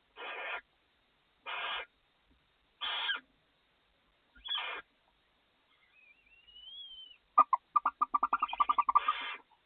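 Barn owls in the nest box: four harsh hissing calls, each about half a second long and spaced about a second and a half apart. Then comes a thin rising whistle, and near the end a fast chittering run of about ten notes a second.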